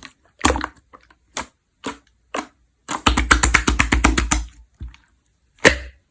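Clear slime being pressed and squeezed by hand, giving sharp wet clicks and pops: a few separate pops, then a quick run of about ten clicks a second for about a second and a half, then one last pop near the end.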